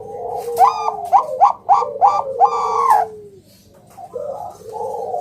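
Bangkok perkutut (zebra doves) cooing: a quick run of about six loud, clipped notes over a lower, drawn-out falling coo, then after a short pause another cooing phrase begins.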